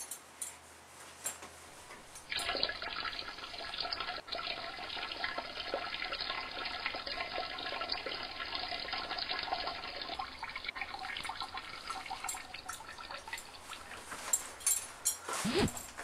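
Toilet flushing: a steady rush of water that starts about two seconds in, runs for roughly ten seconds and then dies away. A short, sharper sound comes near the end.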